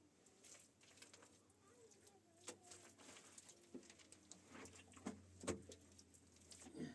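Faint bird calls, with scattered light clicks and knocks; the loudest knock comes about five and a half seconds in.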